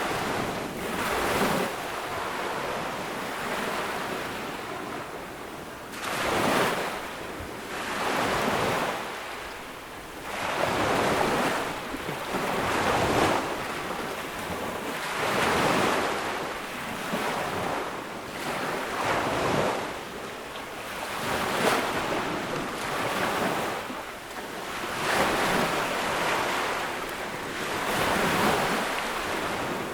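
Ocean waves breaking on a sandy beach, each wave surging in and washing back, one every few seconds in an uneven rhythm.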